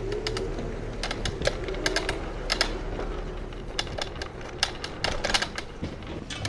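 Rental electric scooter rattling as it rides over rough pavement: irregular sharp clicks and knocks from its loose deck and stem parts, over low road noise.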